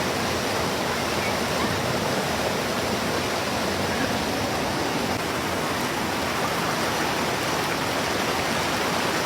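Fast mountain stream rushing steadily, a constant even wash of water noise.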